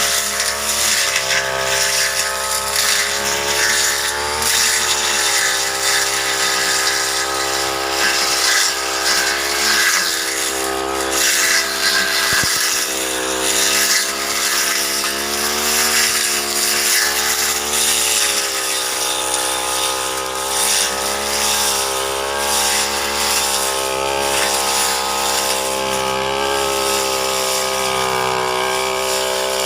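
Brush cutter's small engine running continuously, its pitch rising and falling gently as the throttle and load change while it cuts with the freshly sharpened blade.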